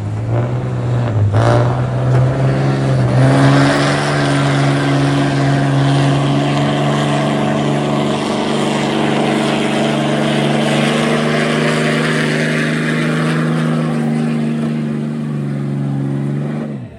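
Stock diesel pickup truck making a pull: the engine revs up over the first few seconds and holds at high revs under load for about thirteen seconds, then cuts off abruptly near the end.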